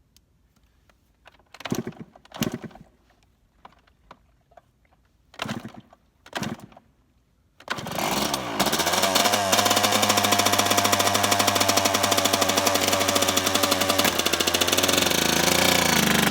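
Yamaha YZ125 two-stroke single-cylinder dirt bike being kick-started: a few kicks that do not catch, then the engine fires about eight seconds in and settles into a steady, loud idle.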